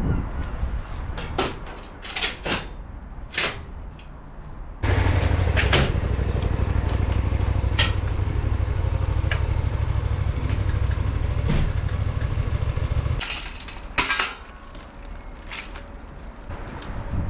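Several clicks and knocks, then a machine motor starts abruptly about five seconds in, runs with a steady low hum for about eight seconds, and cuts off, followed by a few more clicks.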